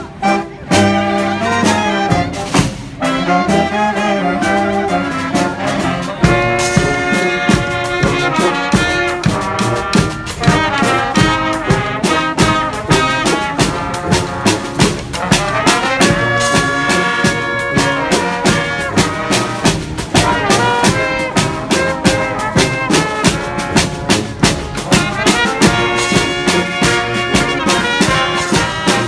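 Live brass band playing an upbeat tune: trumpets, trombones and saxophone over a steady drum beat, with a held chord from the horns about sixteen seconds in.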